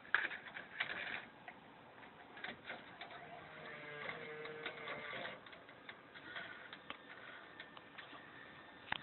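JVC car stereo head unit making an unwanted mechanical noise: a burst of clicks, then rapid ticking and a whirring hum from its internal mechanism in the middle, with scattered clicks after.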